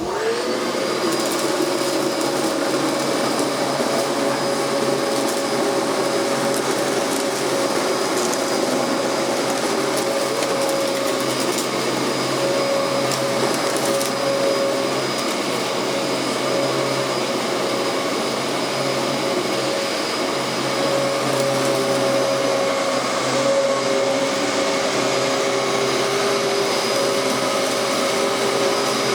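Dyson DC14 upright vacuum cleaner switched on, its motor spinning up with a quick rising whine in the first half second, then running steadily.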